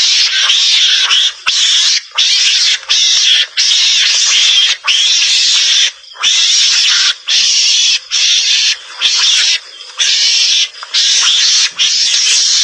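Mongoose (garangan) calls: harsh, hissy, high-pitched calls in near-continuous runs, broken by brief gaps every half second to a second or so.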